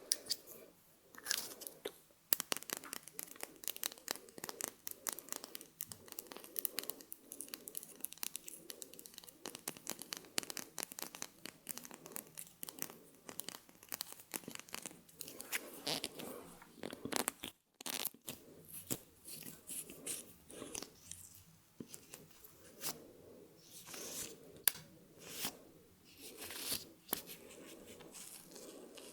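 Close-miked ASMR mouth sounds: a dense run of wet clicks and smacks, broken by a split-second gap about two-thirds of the way through.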